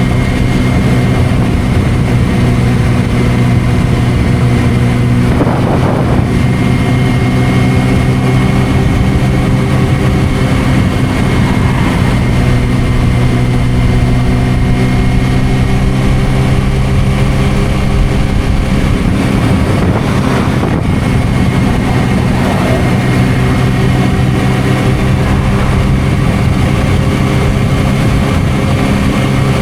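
Suzuki GSR600 inline-four motorcycle engine running through an aftermarket Dominator exhaust, holding a steady pitch at an even speed, with wind rumble on the microphone.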